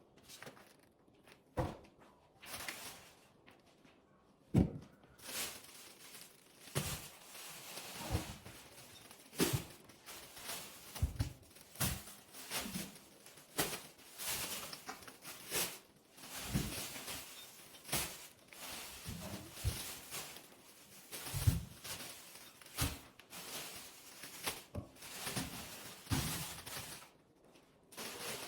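Irregular knocks, taps and clicks from objects being handled and set down in a small room, a couple of seconds apart, with faint rustling between them.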